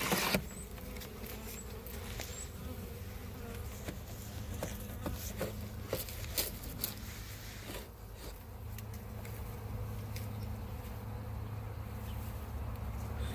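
A honeybee colony buzzing steadily in an open, crowded hive, with a few short clicks and knocks.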